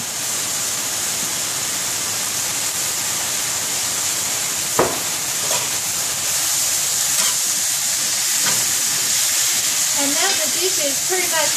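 Napa cabbage sizzling as it stir-fries in a cast-iron skillet, with a spatula stirring and scraping through it. A few sharp knocks cut through the sizzle, the loudest about five seconds in.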